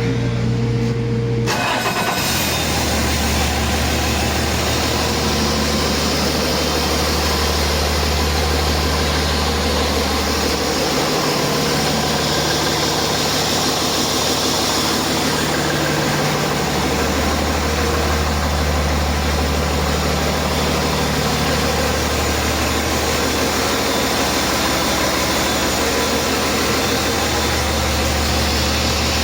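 2015 Cummins ISL9 inline-six turbodiesel engine running steadily. It comes in sharply about a second and a half in.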